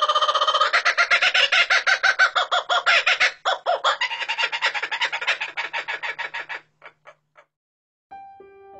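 A bird calling in a long run of fast, harsh repeated notes, loud at first, that thin out and stop about six and a half seconds in. Soft piano music begins near the end.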